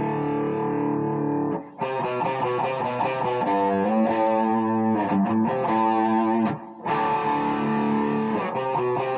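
Overdriven electric guitar playing a blues lead phrase: long sustained notes with string bends and vibrato. There are two brief breaks between phrases, about two seconds in and again near seven seconds.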